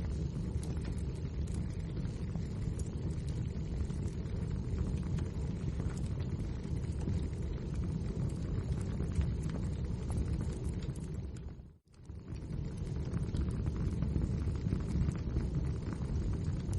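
Wood fire burning in a fireplace: a steady low rumble with constant sharp crackles and pops. About twelve seconds in it fades out for a moment and comes straight back.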